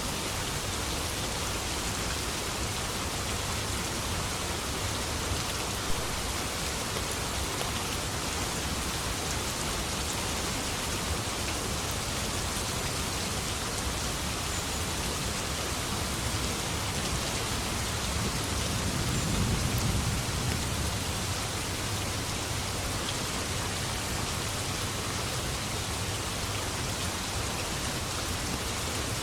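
Steady, heavy rain falling as an even hiss, with a low rumble of distant thunder swelling and fading about two-thirds of the way through.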